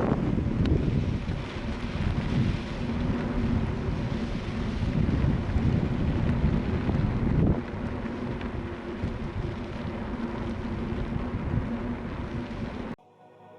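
Strong wind buffeting the microphone: a heavy, gusting rumble that cuts off abruptly near the end.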